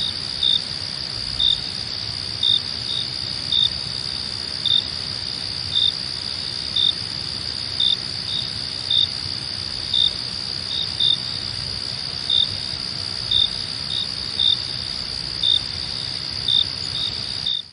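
Crickets chirping at night: a steady high trill under louder short chirps that repeat about once a second. The sound cuts off suddenly at the very end.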